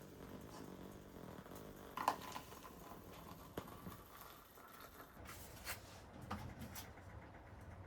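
Faint, scattered clicks and light knocks, with one sharper click that rings briefly about two seconds in.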